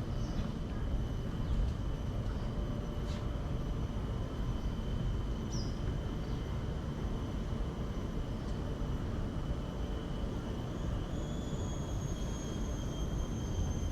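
Steady outdoor ambience: a constant low rumble, with a thin steady high-pitched drone that shifts up slightly near the end, and a few brief faint chirps.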